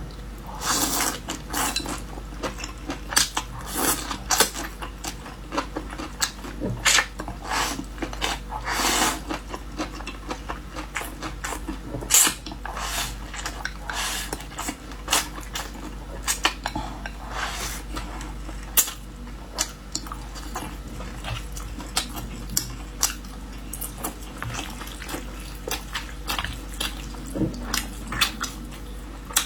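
Close-miked eating of a noodle and rice meal: utensils clicking and scraping against a bowl in irregular strokes, with chewing in between.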